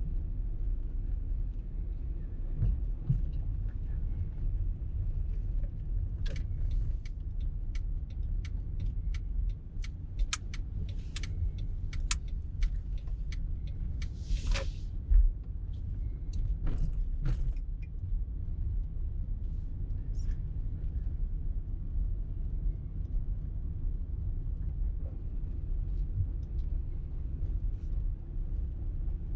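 Car driving in traffic, with a steady low road and engine rumble. About a third of the way in comes an irregular run of sharp clicks and rattles, with a short loud hiss near the middle.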